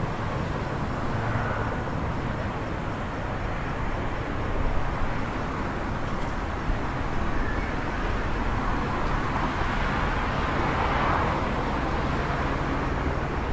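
City traffic at night: a steady rumble of distant vehicles, with a passing vehicle swelling louder in the last third, and a small click about six seconds in.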